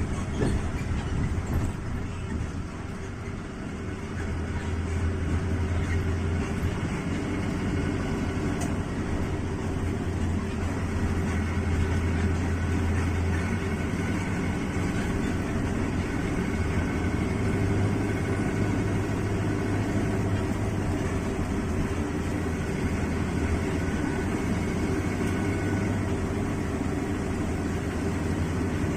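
A vehicle driving along a rain-soaked road: a steady low engine drone with road and tyre noise.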